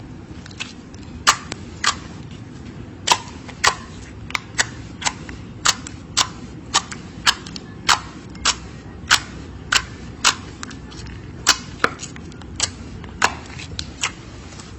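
Slime being pressed and played with by hand, giving a string of sharp pops and clicks at an uneven pace of about one to two a second.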